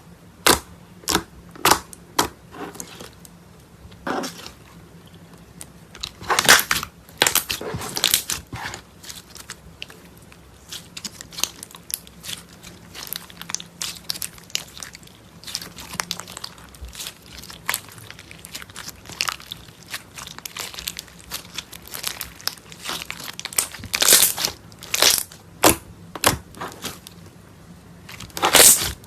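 Slime being squeezed and pressed by hand, giving irregular sharp crackles and pops, with denser runs of them a quarter of the way in and again near the end.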